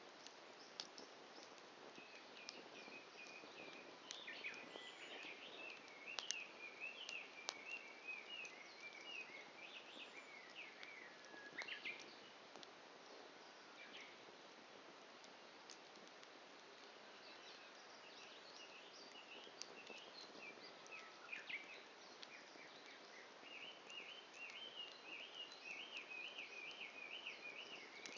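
Wood fire crackling faintly, with scattered sharp pops from the burning wood, while birds sing in repeated chirping phrases, most densely in the first half and again near the end.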